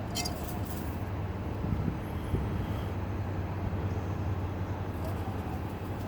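Steady low rumble of motor-vehicle engine noise, with a few faint brief clicks.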